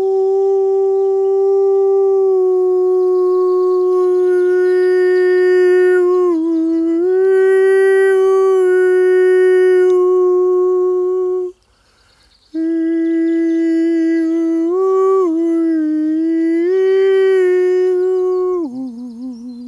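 A man singing wordless, long held notes. He holds two long phrases with small steps in pitch, takes a short breath about twelve seconds in, and near the end drops to a lower, wavering note.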